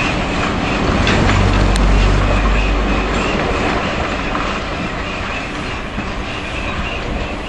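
Steam-hauled passenger train's coaches rolling past close by, wheels clicking over the rail joints. The heavy rumble is loudest about two seconds in, then fades as the train moves away.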